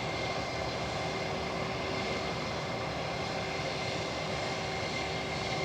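Airliner engines running steadily at the airport, a continuous rush with a high, even whine.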